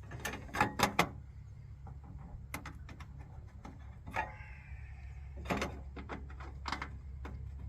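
Knocks and clatter of heater parts being handled, with a short scraping squeak about four seconds in, over a steady low hum.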